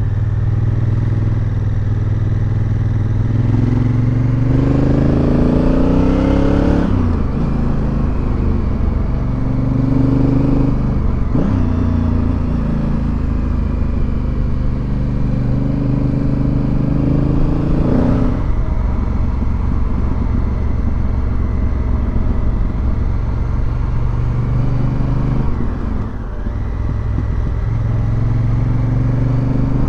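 Motorcycle engine running under way, its pitch climbing as it accelerates, then dropping sharply at each gear change, about four times over the stretch.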